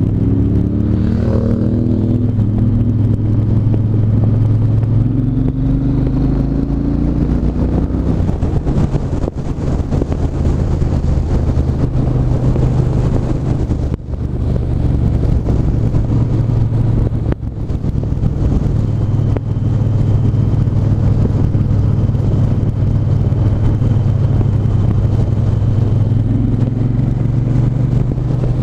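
Triumph 1200 cc parallel-twin motorcycle engine under way, rising and falling in pitch through the first several seconds as the bike pulls away, then running at a steadier pace with a few short dips in level.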